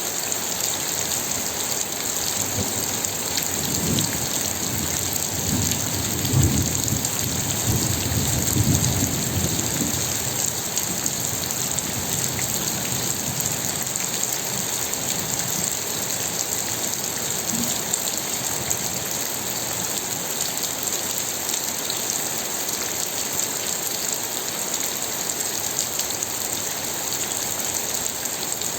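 Steady rain falling, with a low rumble of thunder rolling in about three seconds in and fading out after about ten seconds.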